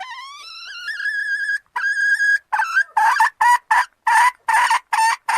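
Junglefowl hen calling a male: two long drawn-out notes, the first rising in pitch, then a quick run of about eight short sharp notes.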